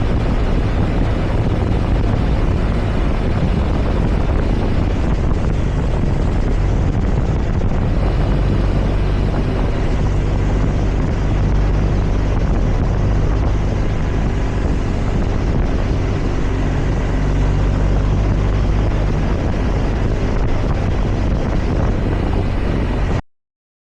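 Motorcycle engine running steadily at speed, mixed with wind noise, with a low steady hum underneath. It cuts off suddenly near the end.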